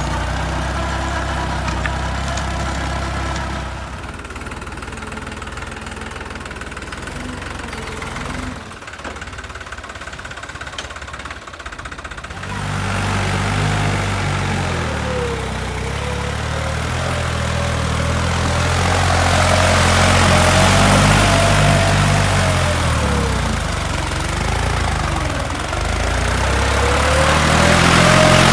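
New Holland tractor's diesel engine running: steady at first, quieter for several seconds, then from a little before halfway it runs harder, its pitch rising and falling as it revs up and down.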